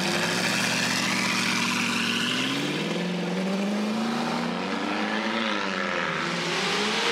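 Twin-turbocharged Audi R8 engine running as the car pulls away at low speed, its pitch rising and falling several times with light throttle.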